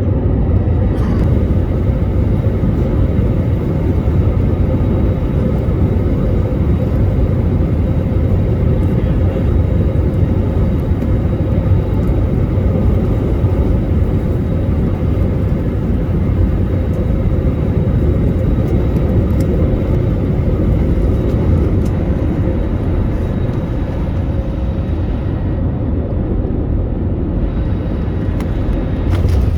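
Steady low rumble of an airliner heard from inside the cabin, with a faint steady hum riding on it.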